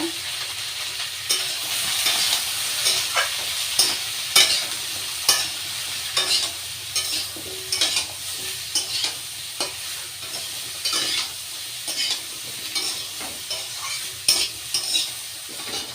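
Chopped vegetables and soya chunks sautéing in hot oil in a kadai, sizzling steadily, while being stirred with repeated scraping strokes against the pan.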